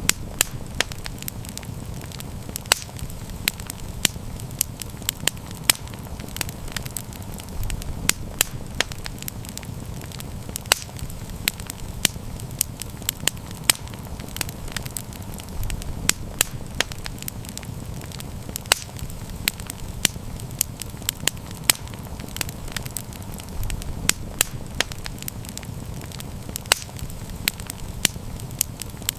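Wood fire crackling: frequent sharp pops and snaps, several a second at irregular intervals, over a low steady rumble.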